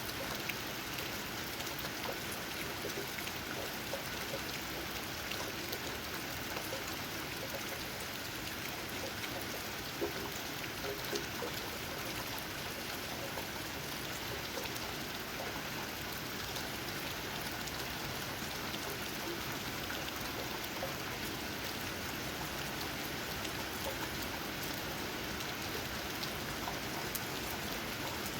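Steady rain, with raindrops tapping on leaves and a few single louder drops standing out now and then.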